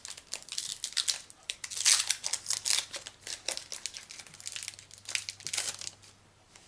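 Foil booster pack wrapper crinkling and crackling as it is handled and torn open, dying away about six seconds in.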